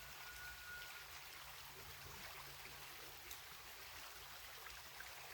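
Faint, steady babble of a creek running.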